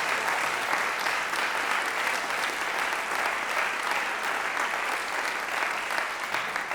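Audience applauding: many hands clapping in a steady, dense patter that begins to fade near the end.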